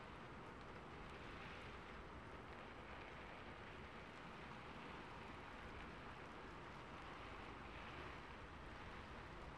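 Steady rain falling, a faint even hiss.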